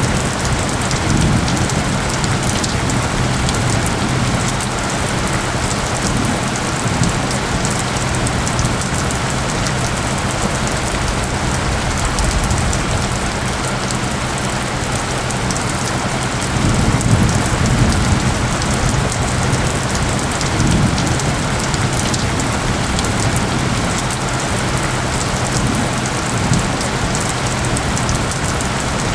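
Steady heavy rain pattering on surfaces, under a few steady low tones. Low rumbles swell about a second in and again around seventeen to twenty seconds in.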